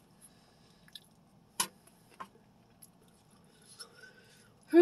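Quiet chewing with a few sharp clicks, the loudest about one and a half seconds in. At the very end comes a short, loud vocal groan falling in pitch.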